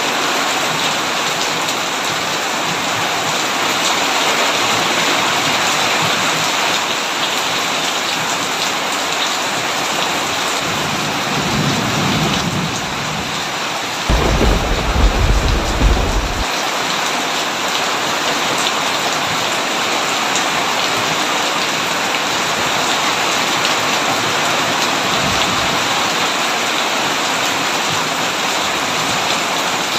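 Heavy rain pouring steadily on a tin roof. A low rumble of thunder builds about eleven seconds in, then a loud, deep thunderclap comes about fourteen seconds in and rolls on for two or three seconds.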